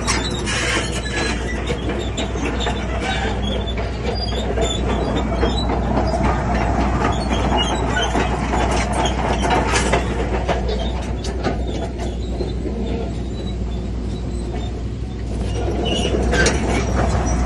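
Crawler bulldozer at work: a steady diesel engine drone under continual metallic clanking and squealing from the tracks.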